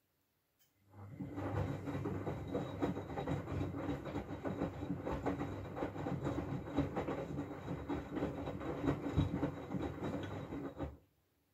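Miele W433S washing machine's drum turning during the rinse, laundry and water sloshing and clattering over a steady motor hum. It starts about a second in and stops shortly before the end, with silence on either side.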